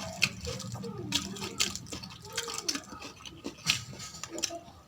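Close-up wet chewing and mouth clicks of someone eating rice and mutton with gravy, a run of short smacks and clicks.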